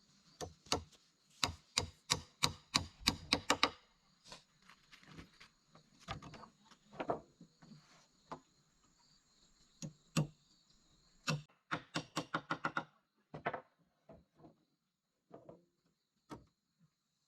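Runs of sharp strikes on wood, coming about four a second, from a hand tool chopping or knocking on wood. One run comes in the first few seconds and another near the middle, with single knocks between. A steady high insect buzz runs underneath.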